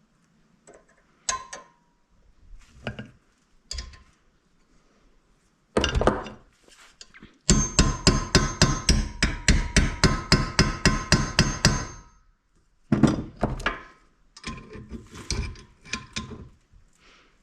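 Hammer blows on metal: a few single knocks, then a fast run of about four strikes a second with a metallic ring, then more knocks near the end. The blows are an attempt to drive out a seized, rusted bolt.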